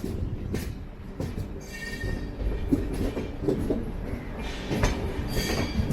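LHB passenger coach wheels running over junction points, knocking over the rail joints and crossings, with brief high wheel squeals about two seconds in and again near the end as the train takes the diverging line.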